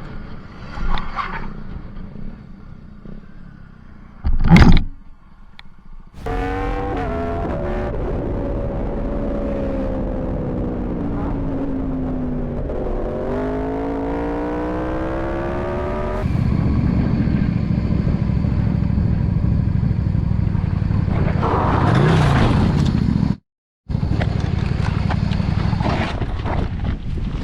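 Motorcycle riding sounds from an onboard camera. A short, loud bang comes about four and a half seconds in. Then an engine's pitch falls steadily as it slows and climbs again as it speeds up, followed by steady engine and wind noise that cuts out briefly near the end.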